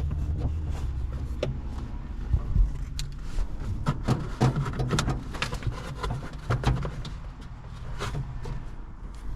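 Scattered clicks, knocks and rustling of hands handling parts and wiring, after a low hum that dies away in the first second or two.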